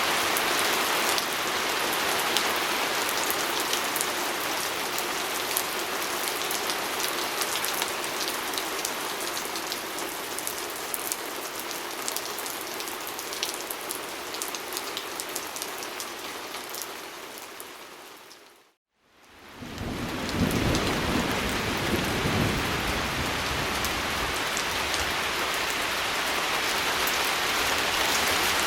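Steady rain pattering on a window pane, a dense hiss with fine drop ticks. About two-thirds of the way in, it fades out to a moment of silence and fades back in. After that it carries a deeper low rumble underneath.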